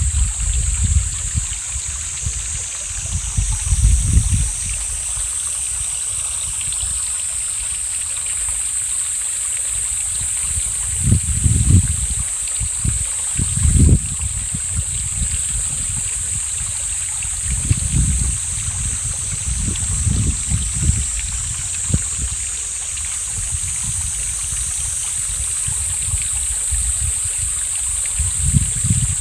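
Mountain valley stream running steadily with a high hiss. Gusts of wind rumble on the microphone several times.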